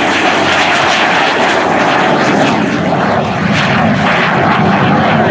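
T-33 Shooting Star jet aircraft's engine running, a loud, steady rush of jet noise.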